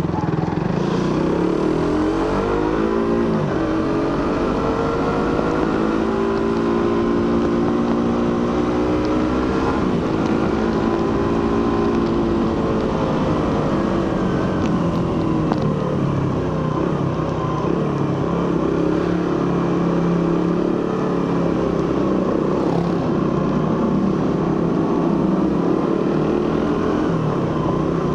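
Suzuki GSX-R150's single-cylinder engine through its stock exhaust, heard from the rider's seat. It climbs in pitch over the first few seconds, holds a steady cruise, drops back about halfway through, then picks up again.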